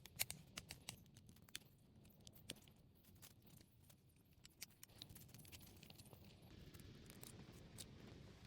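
Faint, irregular sharp clicks and snaps, clustered in the first few seconds and sparser after, over a low steady rumble.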